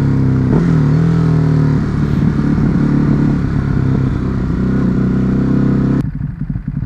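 Ducati Hypermotard's V-twin engine running at steady speed while being ridden, with a brief dip in pitch about half a second in. Near the end the sound drops suddenly to an uneven, quieter rumble.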